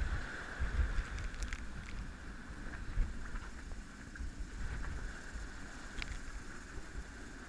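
Wind buffeting the microphone aboard a sailboat under way, with a steady hiss and a few faint knocks.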